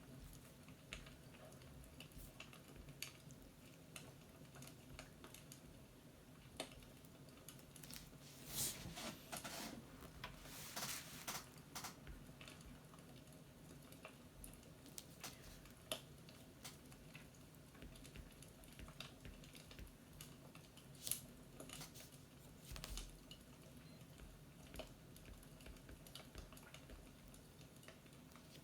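Faint scattered clicks and small crackles over a low steady hum, with a busier run of louder clicks about a third of the way in.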